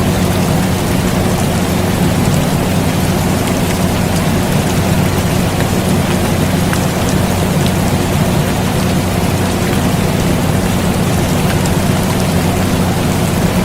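Steady rain falling, with scattered drop ticks, over the even low hum of an air conditioner running.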